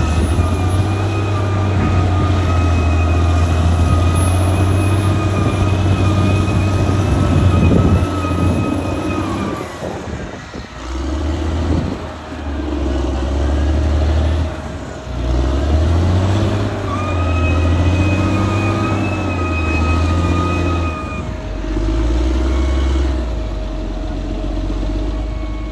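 Caterpillar D6R XL bulldozer's diesel engine working under changing load, its pitch rising and falling as it revs up and eases off. A high steady whine runs over it for the first several seconds and returns later.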